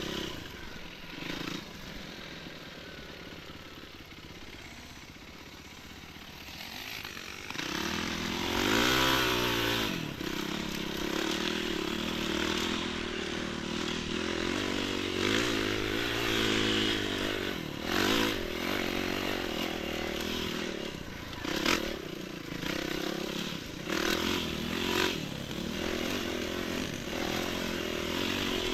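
Enduro motorcycle engine running off-road. It stays fairly low for the first several seconds, then revs up and down repeatedly from about eight seconds in. Occasional sharp clattering knocks come through.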